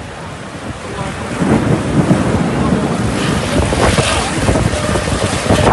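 Storm wind gusting hard against the microphone, with heavy rain; it swells about a second in and stays loud.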